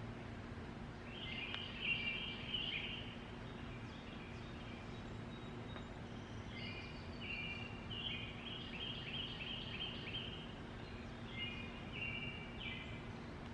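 Songbirds singing: a short phrase of quick high notes about a second in, then a longer run of repeated phrases and a fast series of notes from about six seconds on, over a faint steady low hum.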